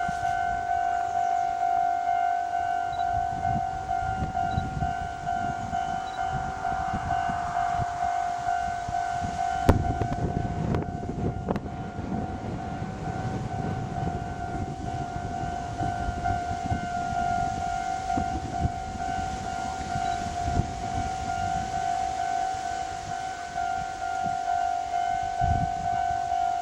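Jōmō Electric Railway DeHa 101 vintage electric railcar: one steady, unchanging whine over a low rumble, with a few knocks, the sharpest about ten seconds in.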